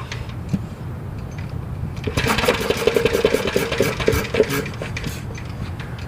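Briggs & Stratton Model FH single-cylinder engine on a cold start, firing in a louder, rapid stretch of about three seconds before dropping back.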